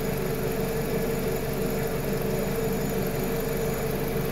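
Four-cylinder petrol car engine idling steadily, its ignition coil packs firing.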